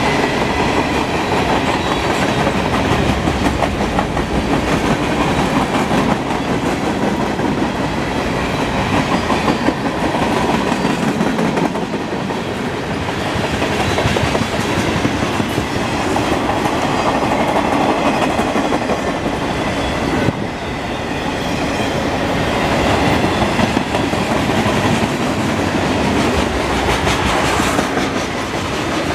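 Freight cars of a mixed manifest train rolling steadily past, covered hoppers and then tank cars, their steel wheels clicking and rumbling on the rails in a continuous clickety-clack.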